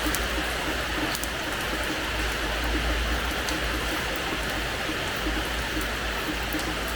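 Steady rain falling on a hard terrace floor, with scattered sharper drop ticks standing out here and there over a steady low rumble.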